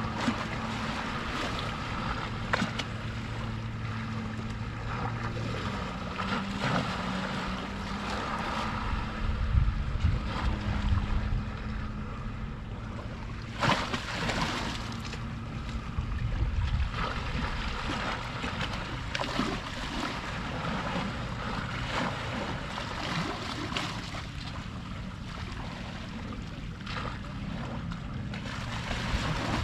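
Seawater lapping and splashing against the shore, with one sharper slap of water about halfway through and gusts of wind rumbling on the microphone. A boat motor hums steadily for the first several seconds.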